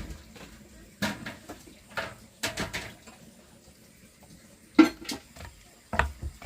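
Dishes and utensils clattering: a string of separate sharp clinks and knocks, the loudest about five seconds in.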